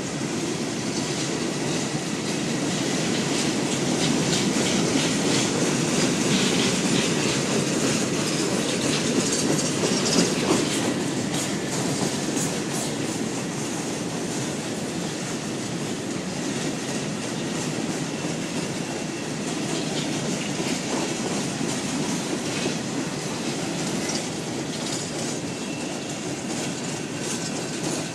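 Freight train cars rolling steadily past, wheels clacking over the rail joints, with a faint thin squeal from the wheels.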